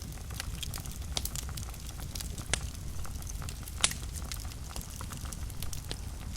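Fire burning in a fireplace: a steady low rumble with scattered crackles and two sharper pops, about two and a half and four seconds in.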